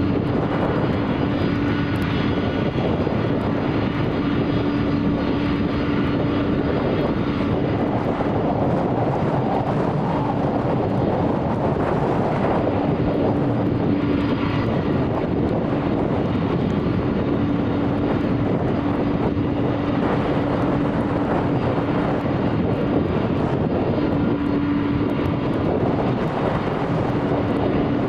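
Delta Boeing 767 airliner's jet engines running with a steady, even noise and a low steady hum.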